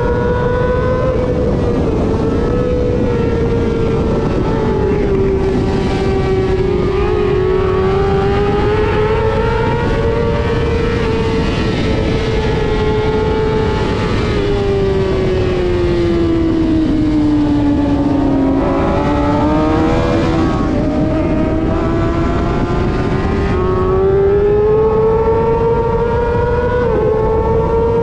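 Race motorcycle engine at high revs under full racing load, its pitch sagging and climbing as the rider works the throttle and gears. The pitch falls to its lowest about 18 seconds in, then climbs back up.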